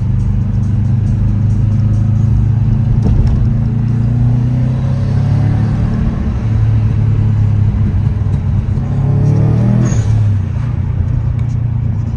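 Car engine idling with a deep, steady rumble, revved up briefly around five seconds in and again just before ten seconds.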